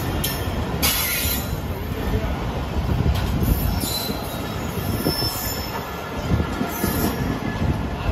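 Train rolling past at close range: a steady, loud rumble of wheels on the rails.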